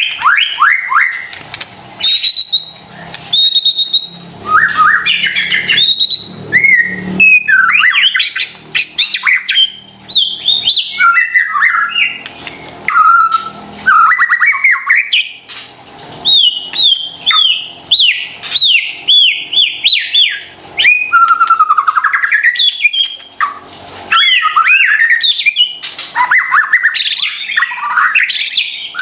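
A white-rumped shama (murai batu) in full, loud song: a fast, varied run of rising and falling whistles mixed with sharp clicks and harsher calls, broken by short pauses. This is the kind of song used as a bait recording to provoke other shamas into singing.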